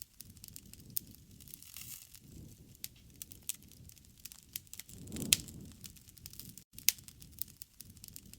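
Wood fire crackling, with irregular sharp pops and snaps over a soft low rustle of flames; a louder flare with a pop comes about five seconds in.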